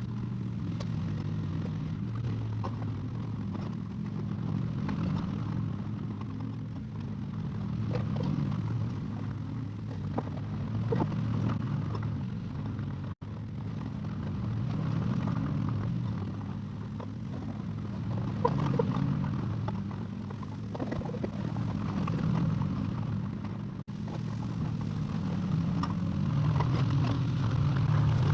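Excavator's diesel engine running steadily, with scattered light clanks and scraping from the machine at work. Twice the sound drops out for an instant.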